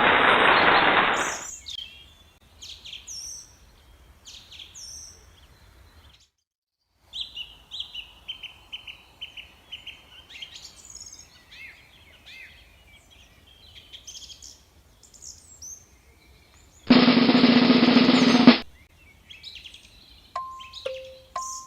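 Scattered short bird chirps and calls, with a brief loud noisy burst near the start, a loud burst about 17 seconds in, and a repeating two-note tone near the end.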